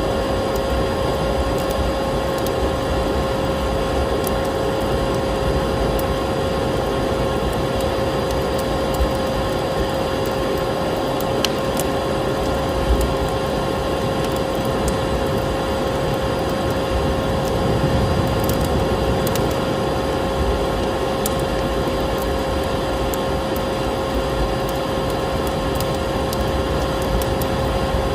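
Vacuum cleaner running steadily, its motor giving a constant pitched whine over a rushing noise, mixed with a crackling wood fire that adds scattered snaps and pops.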